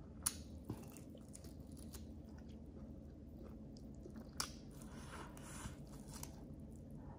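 A person chewing and biting food close to the microphone, with soft wet mouth sounds and crunching. Two sharp clicks stand out, one near the start and one about four seconds in.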